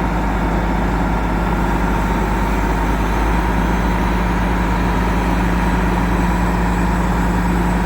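Mobile crane's engine running steadily at a constant speed, its low hum growing a little stronger about three seconds in.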